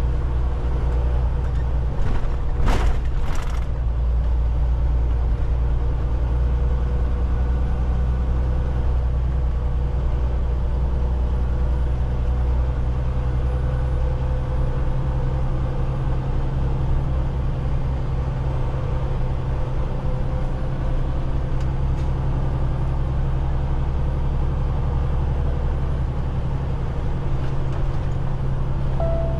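Steady low drone of a semi-truck's engine and road noise, heard inside the cab while driving at highway speed. A brief burst of hiss or rattle comes about two to three seconds in.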